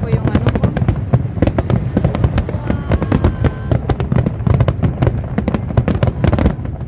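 Fireworks display: a dense stream of aerial shell bursts and cracks, several a second, over a continuous low booming.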